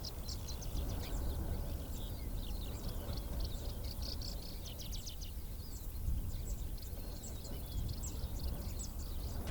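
Many small birds chirping in quick, high, short notes, over a steady low rumble.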